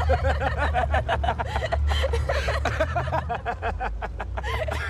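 A raspy voice making rapid, pulsing chuckle-like sounds over a steady low rumble.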